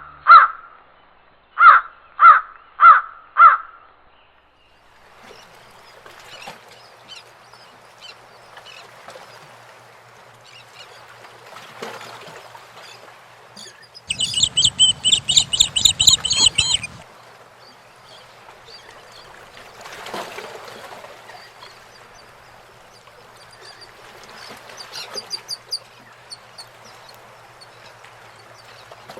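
A crow cawing four times in quick succession, followed by faint scattered birdsong. About halfway through, a loud burst of rapid high-pitched bird calls lasts a few seconds.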